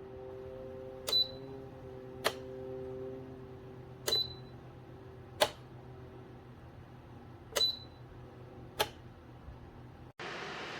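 GiveBest ceramic space heater's tip-over safety switch clicking: six sharp clicks in three pairs, some with a brief metallic ring, over a low hum, as the heater is tipped and set upright. Near the end the sound cuts suddenly to a steady hiss.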